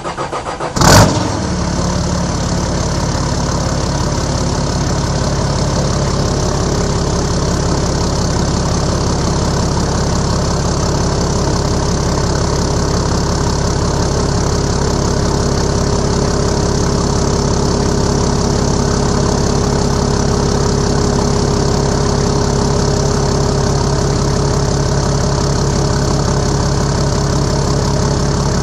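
Nissan GU Patrol's TD42 turbo-diesel inline-six firing up with a loud burst about a second in, then settling into a steady diesel idle through a 3-inch exhaust with no mufflers.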